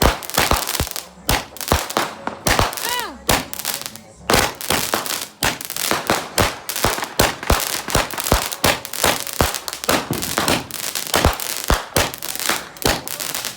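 Fireworks going off in a rapid, irregular string of sharp bangs and crackles, several a second, with a short wavering pitched sound about three seconds in.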